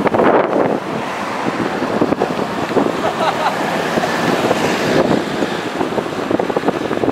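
Steady wind buffeting the microphone, with faint wavering sounds about halfway through.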